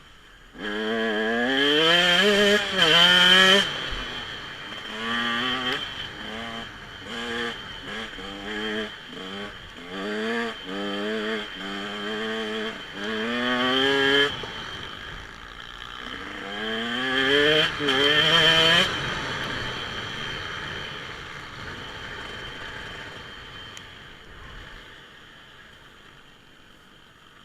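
Dirt bike engine accelerating through the gears. The pitch climbs and drops back at each shift, with a run of quick shifts in the middle and a hard rev about two-thirds of the way through. The engine then fades away.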